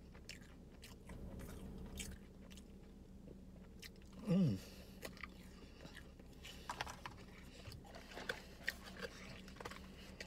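A person chewing and biting fast food inside a car, with small crisp crunches and mouth clicks, thickest in the second half. About four seconds in comes a brief falling vocal sound, over a faint steady hum.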